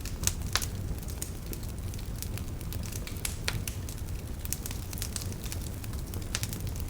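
Wood fire burning in a fireplace: a steady low rumble of the flames with irregular sharp crackles and pops, a few louder pops near the start, around the middle and near the end.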